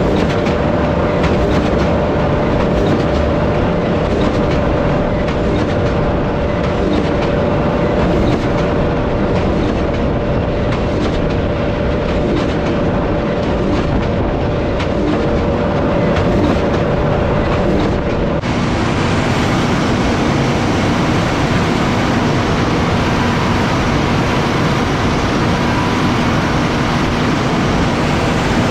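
Tractor-drawn haymaking machinery (tractor engine with windrower or square baler) running steadily at work, a dense mechanical clatter under a steady hum. About two-thirds of the way in it changes abruptly to a lower, different machine hum.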